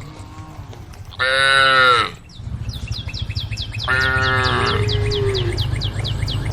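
Cows mooing: a short, loud, high call about a second in, then a longer call a few seconds later that falls in pitch. Under them run a fast, even high-pitched chirping, about four a second, and a low hum.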